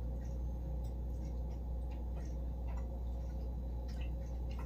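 Cutlery making a few faint, scattered clicks against plates over a steady low hum.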